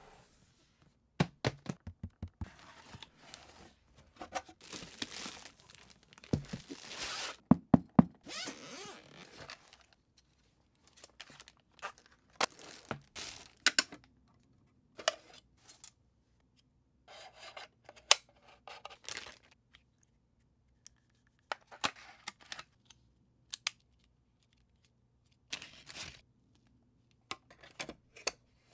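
Packaging being torn open and crinkled, dense for a few seconds near the start, then scattered sharp clicks, knocks and short rustles of parts being handled.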